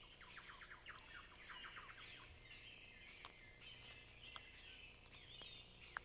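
Faint bird calls: a quick run of short, falling chirps over the first two seconds or so, over a quiet, hissy natural background with a few faint clicks.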